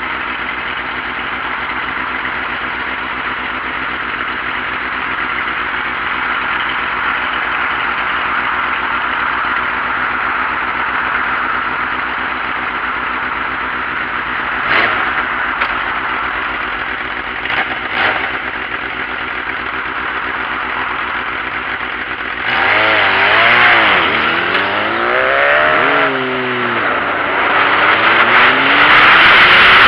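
Sport bike engine idling steadily, with two short throttle blips around the middle. About three quarters of the way in it revs up and down several times, then runs louder near the end.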